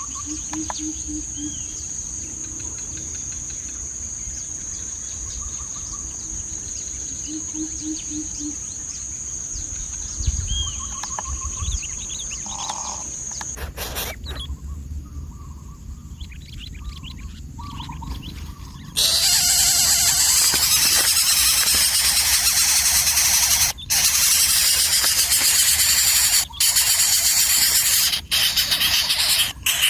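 Outdoor bird and insect ambience: a steady high insect whine with scattered bird calls and short runs of low repeated notes. About two-thirds of the way through, a much louder even hiss takes over, broken by a few brief gaps.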